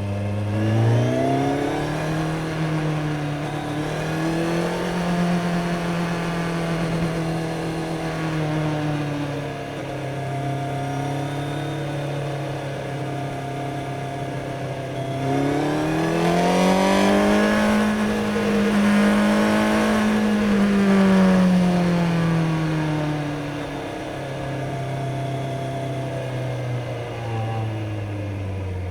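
Kawasaki Z900 inline-four engine pulling through the gears: it revs up about a second in, holds, eases off, then climbs higher again past the middle before easing back and dropping toward idle at the very end.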